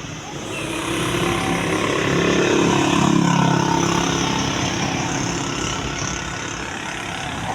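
A truck driving past, its engine and tyre noise swelling to a peak about three seconds in, then fading away.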